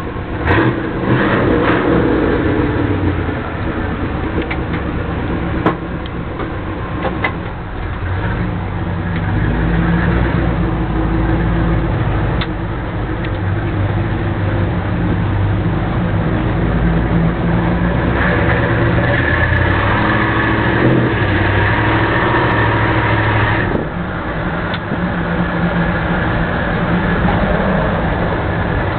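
1966 Chevrolet truck's engine running steadily with a low rumble, with a few sharp clicks in the first several seconds.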